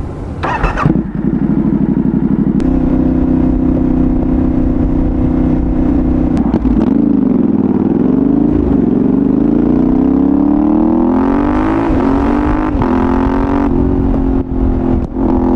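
Yamaha Ténéré 700's 689 cc parallel-twin engine through a full Dominator GP1 exhaust, heard from the rider's seat: it holds a steady note, eases off and dips about two-thirds of the way in, then revs up and climbs through the gears, the pitch stepping down at each of two shifts near the end.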